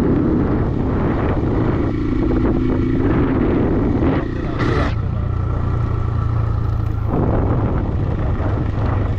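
Motorcycle engine running under way, a steady drone whose pitch drops about four seconds in and then holds, with a brief hiss about halfway through.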